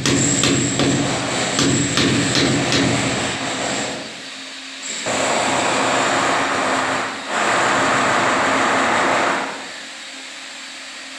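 A handheld power tool's motor runs in three bursts of several seconds each, with a steady hum. Several sharp taps come in the first few seconds.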